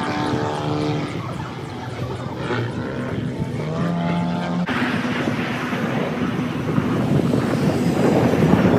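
USAF Thunderbirds F-16 jet roaring past, a loud, rough roar that sets in suddenly about halfway through and grows louder toward the end. Before it, steady held tones.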